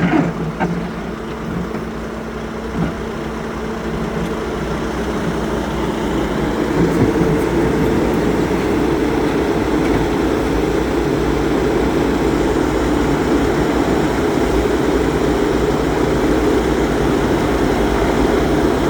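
Bobcat skid-steer loader engine running, growing louder about six seconds in and then holding steady.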